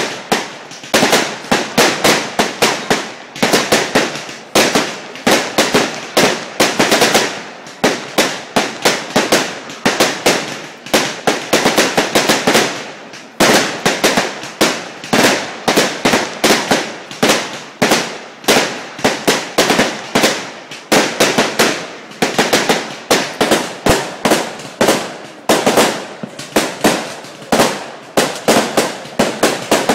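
Fireworks going off in a rapid, nearly unbroken barrage of sharp bangs, several a second, with only brief lulls.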